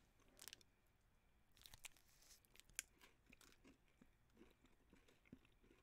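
Faint mouth sounds of a man chewing a keto meal bar: a few soft scattered clicks and smacks over near silence.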